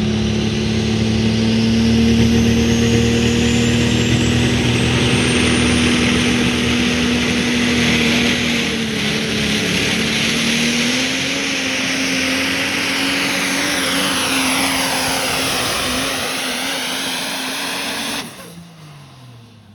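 Pulling truck's engine held at full throttle under load, a steady, loud high-revving note that climbs slightly as the run goes on. Near the end it drops off abruptly and the revs fall away.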